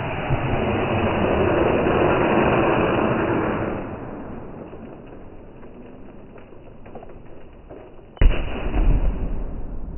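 Fireworks going off. A loud rushing hiss lasts about the first four seconds, then faint scattered crackles, then a sudden sharp bang about eight seconds in with a low rumble after it.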